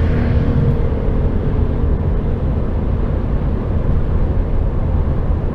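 Steady rumble of a heavy goods lorry cruising on a motorway, heard from inside the cab: low engine drone mixed with tyre and road noise.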